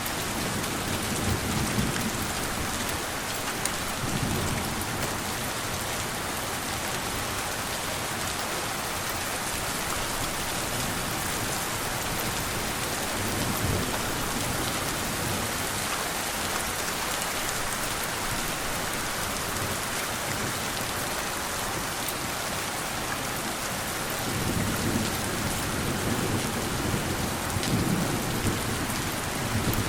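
Steady rain falling, with low rumbles of thunder: a few short ones in the first half and a longer rolling stretch near the end.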